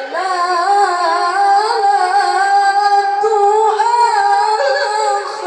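A young qari's high voice chanting Quran recitation in the melodic tilawah style, drawing out long held notes with wavering, ornamented turns.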